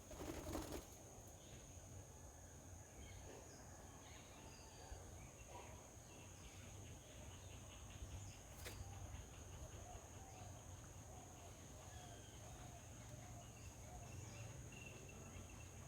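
Faint outdoor background with a steady high-pitched whine, a low hum and scattered faint bird chirps, including a short run of evenly spaced calls about ten seconds in. A brief louder noise opens it and a single click comes about halfway through.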